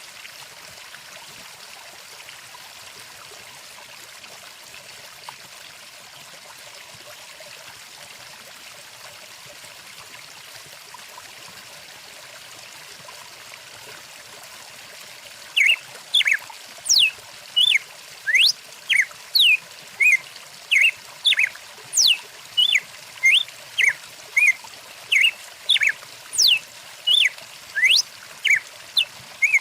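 Steady rush of a flowing stream. About halfway through, a bird starts calling over it in short, loud, sweeping notes, roughly three every two seconds.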